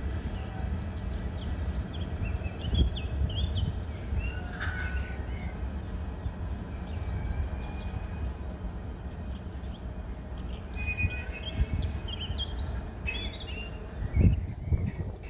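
Container freight train rolling steadily past, a low rumble of the wagons' wheels on the rails with a couple of heavier knocks, the loudest near the end. Birds chirp over it.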